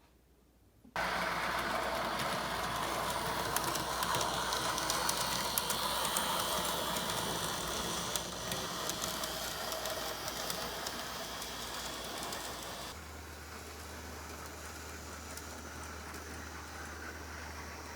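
N gauge model train running along the layout's track: a steady whir with fine clicking from the wheels on the rails. It starts abruptly about a second in and turns quieter, with a low hum, about twelve seconds later.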